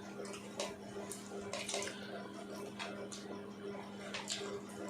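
People eating gola ruti (egg-and-flour pancakes) fast: irregular wet chewing and lip-smacking clicks over a steady low hum.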